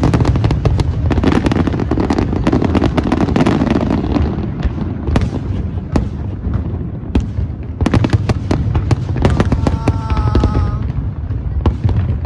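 Fireworks display: a rapid, dense run of sharp bangs and crackles over a continuous low rumble of booms.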